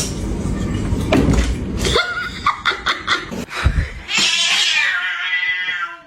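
A cat calling: a low rumbling noise first, then a few short calls about two to four seconds in, and one long drawn-out call in the last two seconds.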